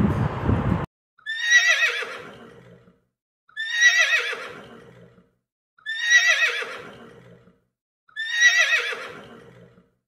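A horse whinnying four times, the same shaky, wavering neigh repeated about every two and a half seconds, each call starting strong and fading away. A rush of noise runs before the first whinny and stops abruptly about a second in.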